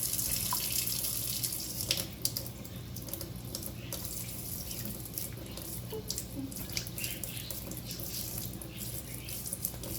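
Water running from a tap over a parrot being bathed; the flow drops about two seconds in, leaving a quieter trickle with splashes and drips.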